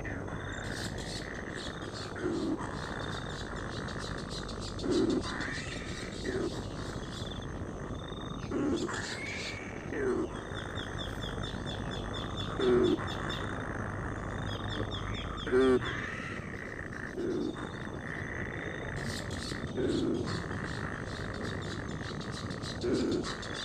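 Short, low animal calls repeating every one to three seconds, over a steady high-pitched background drone.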